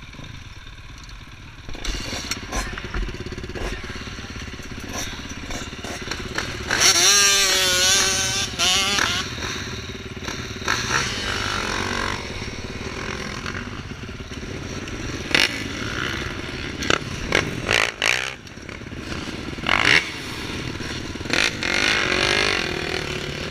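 Motocross bike engines running and revving, loudest about seven seconds in, where the pitch wavers up and down with the throttle. Short sharp knocks and clatter come through here and there.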